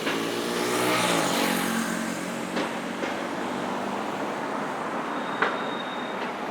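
Road traffic: a motor vehicle passes close about a second in, its engine note falling in pitch as it goes by, over a steady hiss of traffic. A single sharp click comes near the end.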